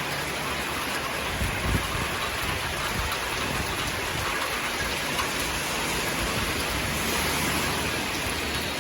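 Heavy rain falling steadily, an even hiss of rain on surfaces, with a brief low thump about a second and a half in.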